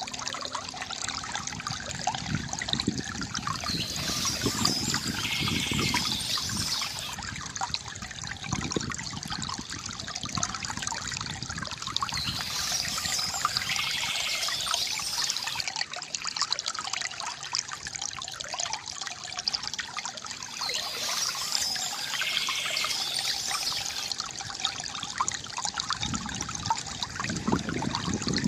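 Water trickling and gurgling from a bamboo fountain in a steady stream, with birds chirping in short spells about every eight or nine seconds.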